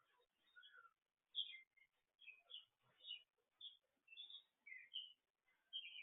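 Songbirds chirping and singing faintly in short bursts, about two to three high chirps a second with brief quiet gaps between them.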